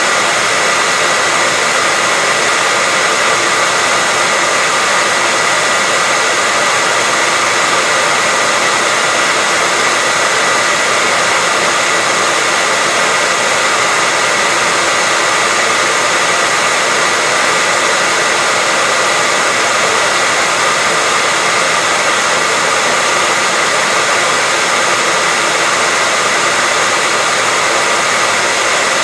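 Hairdryer running steadily: a loud, unbroken rush of air with a steady whine from its fan motor.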